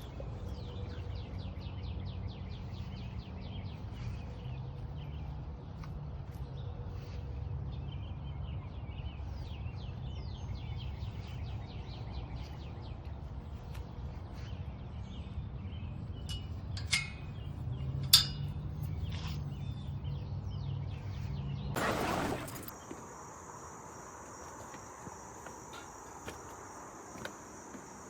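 Outdoor ambience: a low rumble with scattered faint chirps and two sharp clicks about two-thirds of the way in. After a brief loud rustle, it changes abruptly to a steady, high-pitched chorus of crickets.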